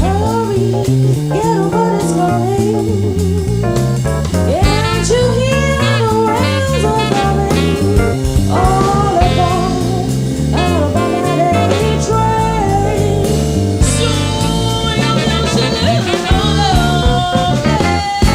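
Small jazz band playing a swing tune live: a bass steps to a new note on each beat under drums and chords, while a lead melody line with vibrato runs on top.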